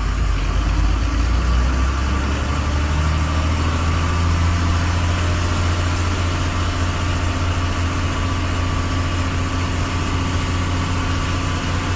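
A motor vehicle's engine running steadily at idle, a continuous low drone.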